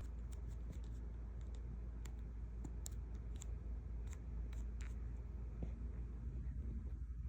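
Steady low rumble with scattered small, sharp clicks and ticks, like handling noise on the recording device.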